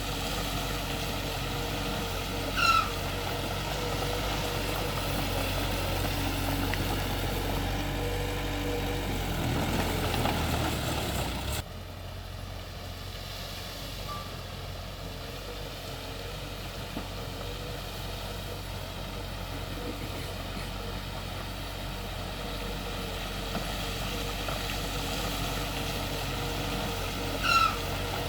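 Heavy diesel earthmoving machinery running steadily, its sound building about eight seconds in and then cutting abruptly to a quieter engine about twelve seconds in. Two short high chirps stand out, one near the start and one near the end.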